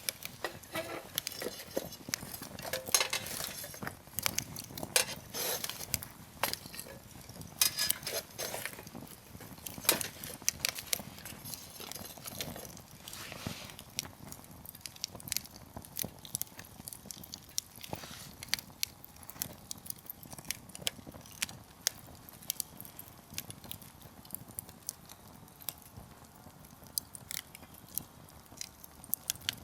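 Wood campfire crackling, with many sharp pops and snaps of burning firewood. The pops come thick and fast in the first half and thin to scattered snaps in the second.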